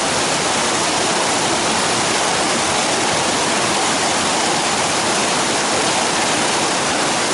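A swift winter river rushing, a loud, even wash of moving water that holds steady throughout.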